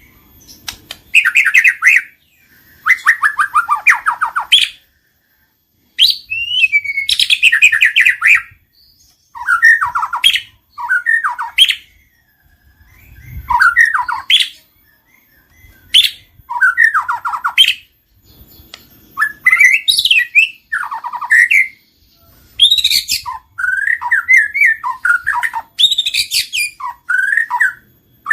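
White-rumped shama (murai batu) singing: loud, varied phrases of clear whistles, sweeps and rapid trills, each a second or two long, with brief pauses between them.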